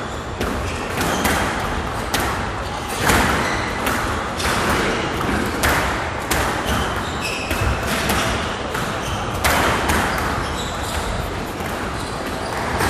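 Squash rally: the ball is struck by the rackets and smacks off the court walls in an uneven run of sharp hits, about one to two a second, with a few short squeaks between them.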